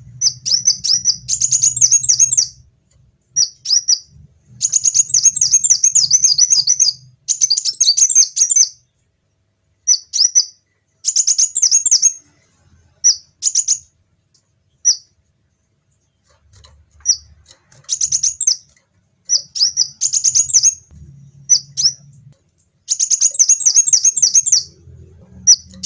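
A kolibri wulung sunbird singing in bursts of rapid, high-pitched twittering trills, each phrase lasting up to about two seconds and separated by short pauses, with a longer pause about halfway through.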